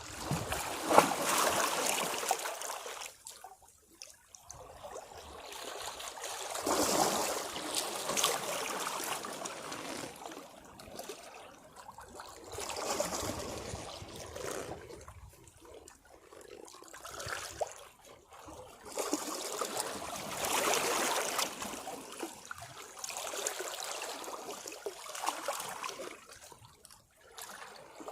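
Sea waves washing against rocks, the water swelling and falling back in five surges about every five to six seconds.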